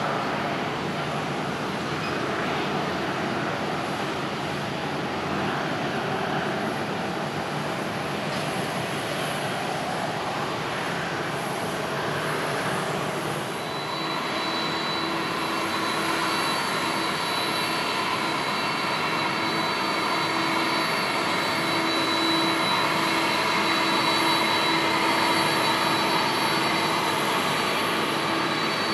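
Boeing 737-500's CFM56-3 turbofan engines at takeoff power: a steady jet roar, joined about halfway through by a steady high fan whine and humming tones, growing slowly louder.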